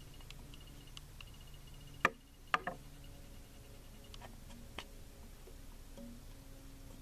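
Faint rapid high-pitched ticking that stops and starts, over a low steady hum, with two sharp clicks about half a second apart a little past two seconds in.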